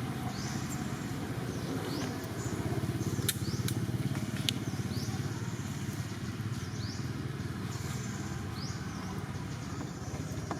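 A small engine running steadily, with a high chirping call repeated about once a second over it.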